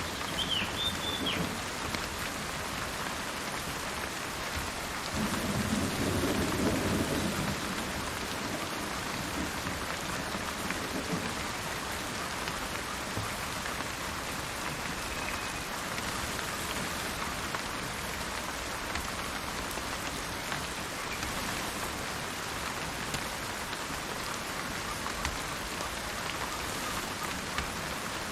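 Steady rain falling on the forest, with a low roll of thunder swelling about five seconds in and fading a few seconds later. A bird gives a short chirp near the start.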